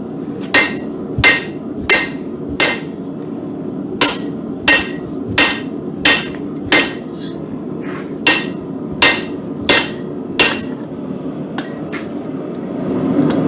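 Blacksmith's hammer striking a hot mild-steel bar on the anvil to knock a corner off, about thirteen ringing blows, roughly one and a half a second, in three runs with short pauses, then two light taps. A steady low hum runs underneath, and a louder steady noise comes up just before the end.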